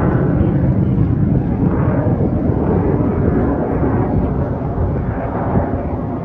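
F-22 Raptor's twin Pratt & Whitney F119 afterburning turbofans, heard from the ground as a loud, continuous jet roar during a low-speed flat spin. The sound swells and fades about once a second and eases slightly toward the end.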